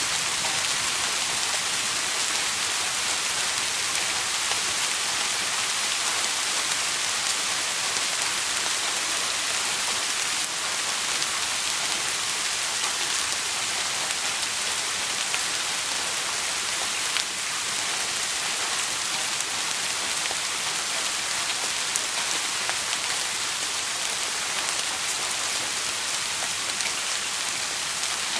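Steady rain falling on a surface, an even hiss with a few faint ticks here and there.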